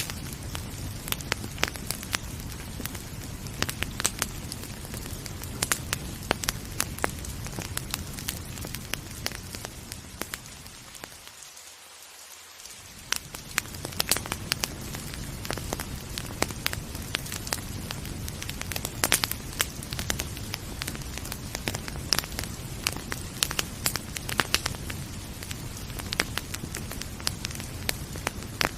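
Wood fire crackling, with frequent sharp pops and snaps over a steady hiss of rain and a low rumble. Around eleven seconds in, the whole sound fades down briefly, then swells back.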